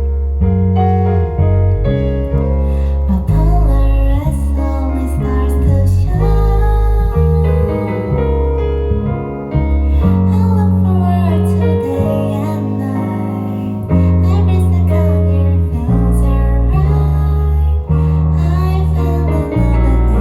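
Live song: a female vocalist sings a melody over keyboard and a bass line that moves through sustained low notes.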